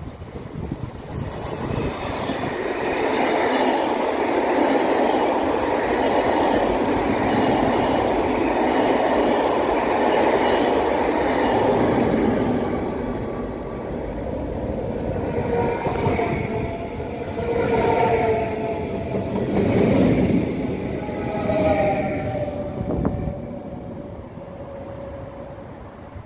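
Electric passenger trains passing on the line: a steady rumble of wheels on track for about ten seconds, then pitched horn tones sounded several times over the running noise, some dipping slightly in pitch.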